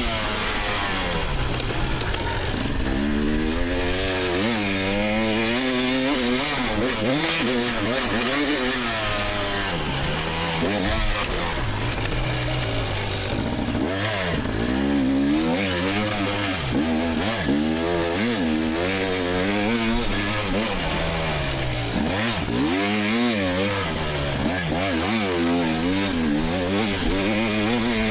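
2024 GasGas EX300 two-stroke dirt bike engine being ridden hard, the revs climbing and dropping every second or two through throttle changes and gear shifts.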